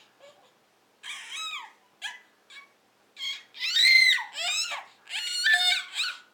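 Toddler imitating a monkey with a string of high-pitched "ooh ooh ah ah" hoots and squeals, loudest in the middle.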